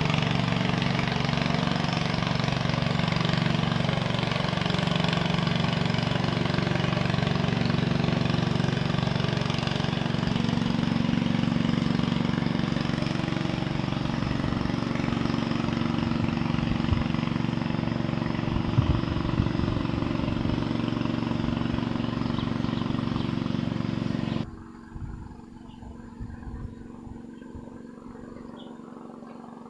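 An engine running steadily at a constant pitch, then cutting off sharply about 24 seconds in, leaving a much quieter low rumble.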